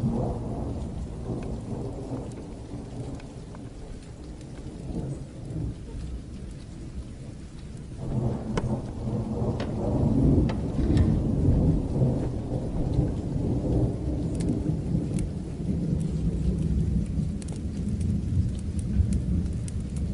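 Low rolling thunder rumbling over steady rain, building at the start and swelling again about eight seconds in, with faint scattered crackles.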